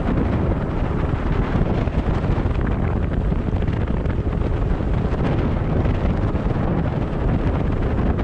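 Steady wind rushing over the microphone of a moving vehicle, mixed with road and engine noise.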